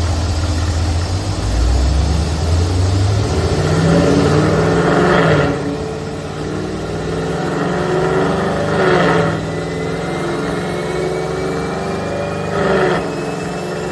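Exhaust of a 2019 Camaro SS's 6.2-litre V8 with headers, running in gear on a chassis dyno. The engine note climbs over the first few seconds, with short louder surges about five, nine and thirteen seconds in, and a faint whine rises slowly in pitch through the second half.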